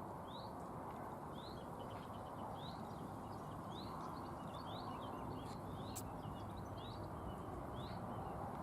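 Small birds chirping, a string of short rising chirps, over a steady low outdoor background noise; a single faint click about six seconds in.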